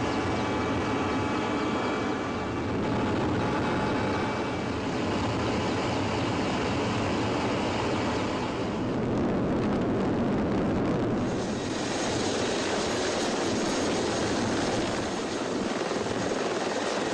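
Mi-24 helicopter running, a steady noise of its twin turboshaft engines and rotor, with a thin turbine whine over it in the first few seconds. The sound changes abruptly about eleven seconds in, as if the footage cuts to another shot.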